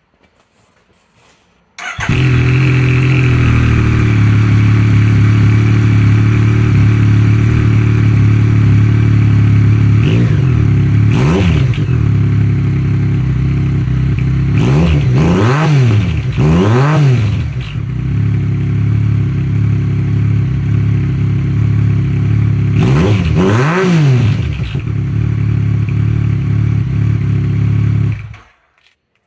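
2015 Yamaha FZ-09's 847 cc inline-three through a Delkevic full exhaust with a 14-inch muffler: the engine starts about two seconds in and idles steadily, is revved in quick blips a few times, and cuts off suddenly near the end.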